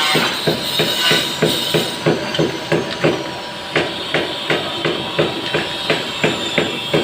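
Hammer striking repeatedly at a steady pace, about three blows a second.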